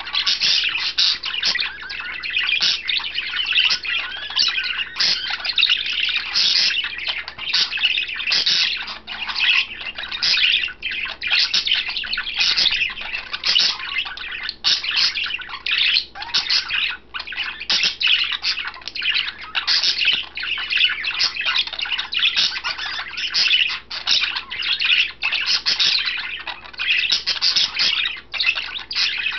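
A green budgerigar singing: a long, continuous, chattering warble of quick chirps and squeaks with only brief pauses.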